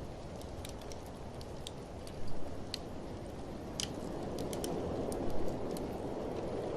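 Wood fire crackling with scattered sharp pops, a few louder ones among them, over a steady low rush of blizzard wind that swells a little in the second half.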